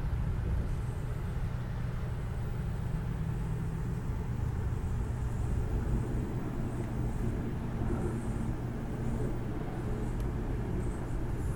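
Steady low rumble of an Amtrak passenger train running along the track, heard from inside the coach.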